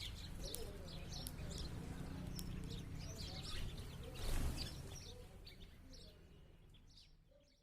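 Sparrows chirping, many short, high chirps in quick succession over a low background rumble, with a brief rushing noise about four seconds in; the sound fades out near the end.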